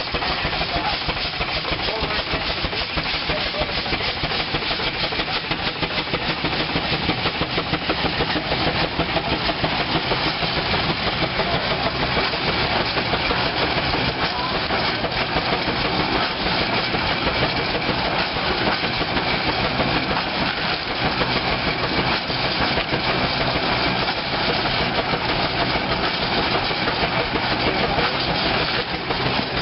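Steam engine driving an old veneer mill, running steadily with a rapid mechanical clatter over a hiss of steam.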